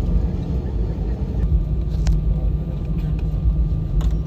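Steady low rumble of an Airbus A320-200's engines and airflow heard inside the passenger cabin, with a steady hum, and a couple of faint clicks about two and four seconds in.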